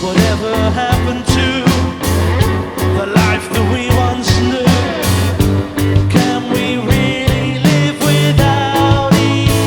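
A rock band playing live, with drums keeping a steady beat under bass and guitars.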